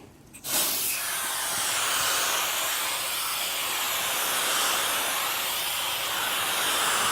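Aerosol can of foaming air-conditioner coil cleaner spraying onto the condenser's fins, a steady hiss that starts about half a second in.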